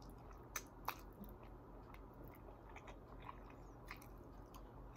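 Faint close-up chewing of food, with scattered soft mouth clicks and two sharper crisp clicks about half a second and a second in.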